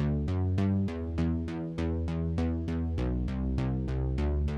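Soloed 80s-style synthesizer bass line: a steady run of short, plucky bass notes, about four a second, each with a bright attack that quickly dulls. The pitch moves to a new note every second or so.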